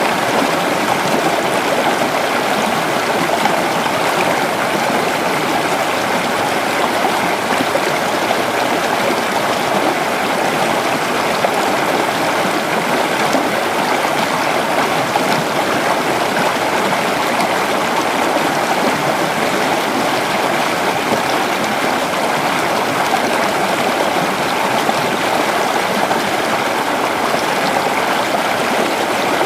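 A creek flowing steadily, the water rushing and burbling over rocks at an even level without a break.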